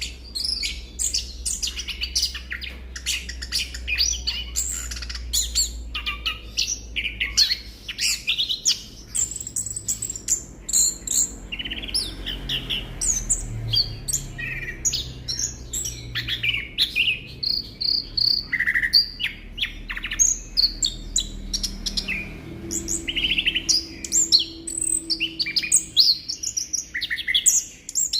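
Chestnut-capped thrush (anis kembang) singing a fast, continuous, varied stream of whistles, trills and chirps.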